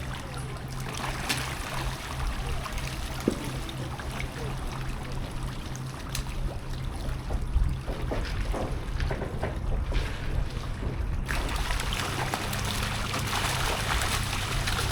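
Steady river water running and trickling over a low rumble, with a few small splashes in the middle.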